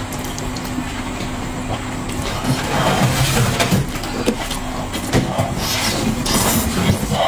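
Chewing and mouth-smacking while eating braised pork knuckle, irregular wet noises and clicks that grow busier from a couple of seconds in, over a steady low hum.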